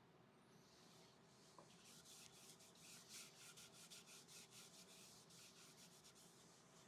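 Faint quick rubbing strokes, several a second, starting about two seconds in and stopping near the end: a cloth or pad being rubbed over the wood of a small turned ash bowl.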